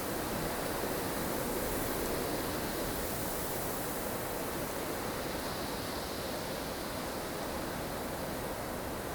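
Snowstorm ambience: strong wind blowing steadily as an even rushing hiss with slow swells, no distinct gusts or events.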